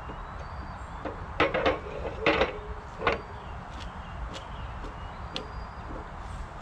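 A few sharp metallic knocks and clanks, some with a short ring, as the seized steel pole of an old barbecue is worked by hand. They come in a cluster a second or so in, then die away; faint bird chirps sound over a steady low rumble.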